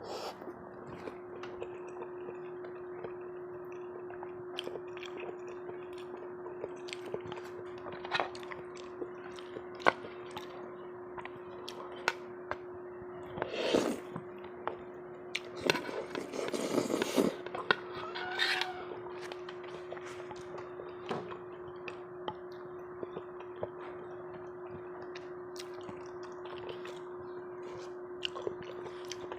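Someone eating a meal: spoon and utensils clicking and clinking against dishes, with chewing, and a few louder bursts in the middle, over a steady hum.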